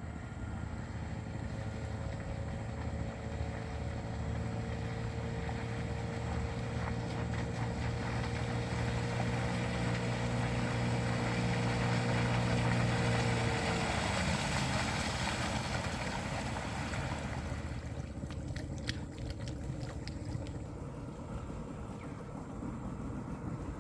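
A motorboat engine running steadily, its tone gliding down slightly and dropping out about fourteen seconds in. A rushing noise swells around the same time, and a few sharp clicks come near the end.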